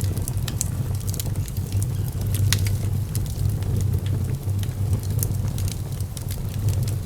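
Fire burning in a fireplace: frequent irregular crackles and pops over a steady low rumble.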